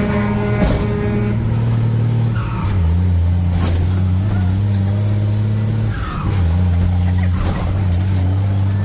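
Truck engine running with a steady low drone, its pitch stepping down about a third of the way in and shifting again a couple of times later.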